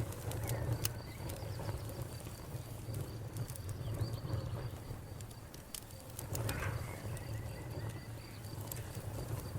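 Wood fire crackling, with scattered sharp pops over a steady low rumble. A faint insect chirps in an even high-pitched rhythm in the background.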